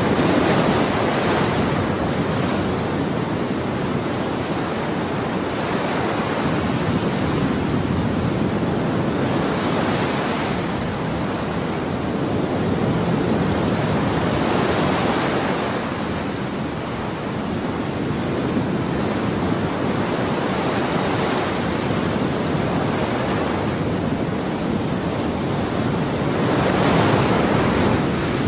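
Ocean surf: a continuous rushing wash of waves, swelling into several louder breaking surges.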